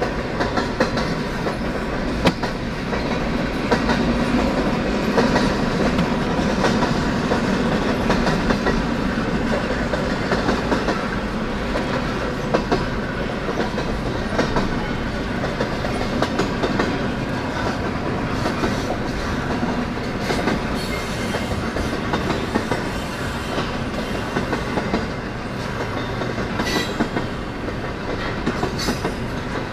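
Canadian National freight train rolling past, a steady rumble of wheels on rail with frequent irregular clicks and knocks.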